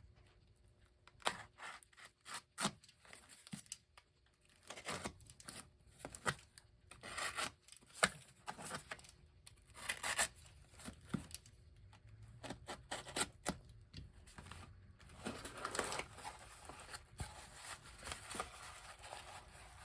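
A parcel of replacement parts being opened by hand: irregular tearing, rubbing and rustling of the packaging, with scattered sharp clicks and scrapes.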